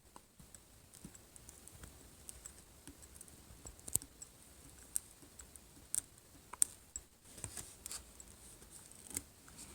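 Faint, scattered small clicks and ticks as the glued glass screen of a Samsung Galaxy S4 is slowly pried and lifted away from the phone.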